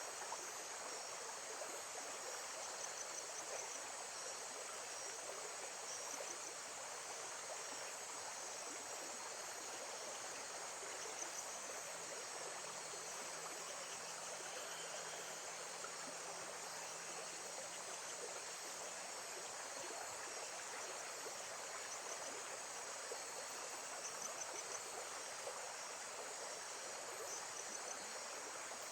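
Nature ambience of steady running water, with insects chirping in short high trills every few seconds over it.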